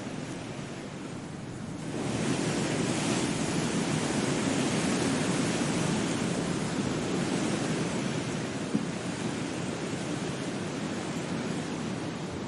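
Steady rushing noise, louder from about two seconds in, with a single brief tick near the end.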